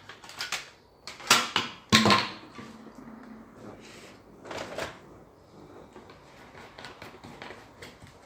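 Irregular clicks and knocks of hard objects being handled and set down. The loudest pair comes between one and two seconds in, and another pair follows about four and a half seconds in.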